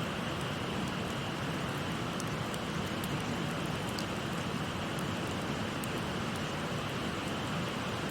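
Steady rush of a shallow river's babbling water, with small crackles and pops from a burning wood fire scattered through it.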